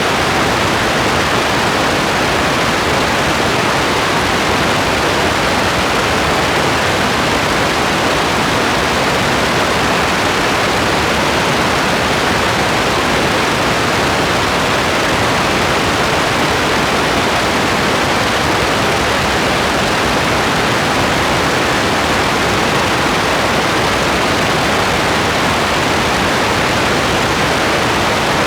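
Steady rain, a dense continuous hiss with no separate drops or changes.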